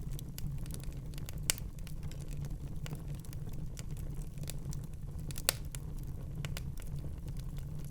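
Wood fire crackling in a fireplace over a steady low rumble, with scattered small snaps and two sharper pops, one about a second and a half in and one about five and a half seconds in.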